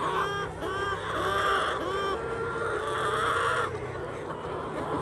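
Birds calling: a run of short, arched, repeated calls that stop about three-quarters of the way through, over a steady low hum.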